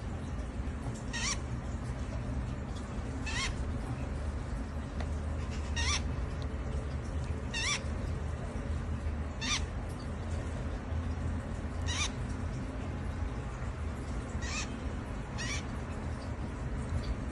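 A newly hatched baby bird peeping: about nine short, high chirps, one every two seconds or so. A low steady hum runs underneath.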